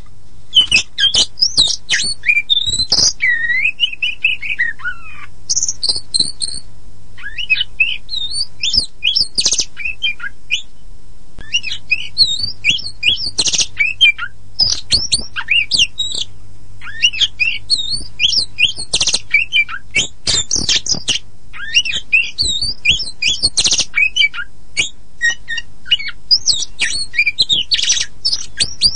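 Oriental magpie-robin of the white-bellied kacer poci form singing a fast, varied song of whistles, trills and chattering notes, with a few brief pauses.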